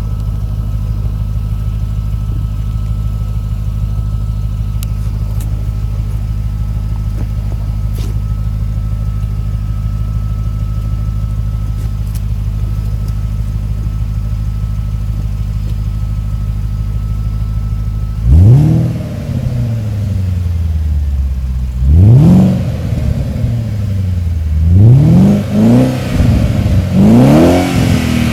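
Audi C5 RS6 twin-turbo V8 through a non-resonated Milltek cat-back exhaust with the pre-cats removed, idling steadily, then blipped in a series of sharp revs that rise and fall back, coming closer together near the end.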